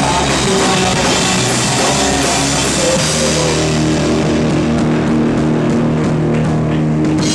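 Live rock band playing loud, with distorted guitars and drums. About halfway through, the bright cymbal wash thins out and sustained low chords ring on.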